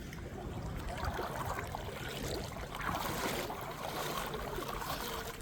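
Sea water sloshing and splashing close by, swelling up for a few seconds and easing off, over a low rumble.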